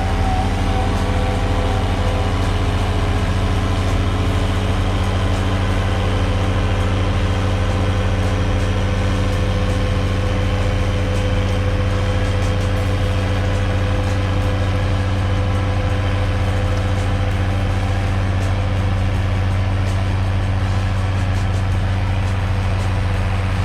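An engine idling steadily: a deep, even hum that does not change.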